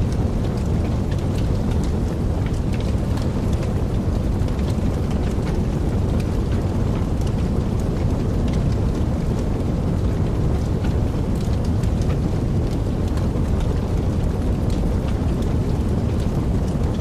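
Wood fire crackling in a fireplace: a steady low rumble of the flames with many small irregular pops and snaps scattered throughout.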